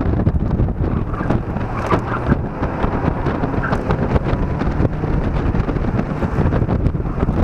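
Mazda Miata's four-cylinder engine running as the open-top car is driven hard, largely buried under heavy wind buffeting on the microphone.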